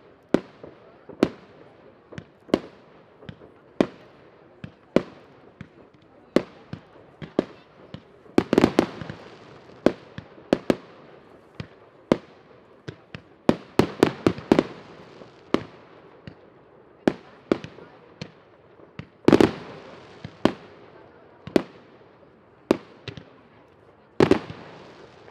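Fireworks going off: a steady run of sharp bangs about once a second, with denser rapid volleys in several places. The loudest blasts, about a third of the way in and again about three quarters of the way in, each trail off in a short rolling echo.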